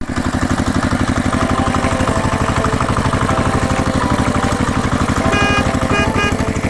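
Cartoon truck engine idling with a fast, steady chugging pulse, under light background music; a few short high beeps sound about five to six seconds in.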